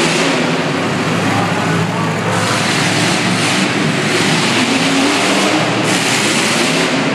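Several demolition derby cars' engines running and revving together, a dense, continuous engine noise with wavering tones.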